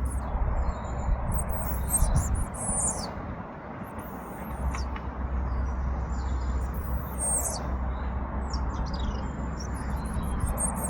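Robin singing a series of short, high, thin warbling phrases with pauses between them, over a steady low wind rumble on the microphone.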